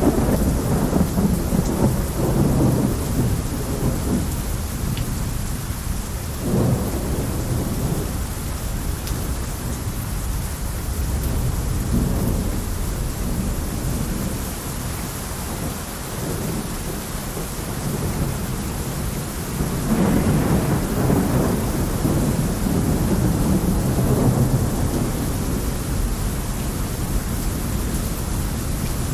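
Heavy rain falling steadily, with low rumbles that swell a few times, the longest and loudest about two-thirds of the way through.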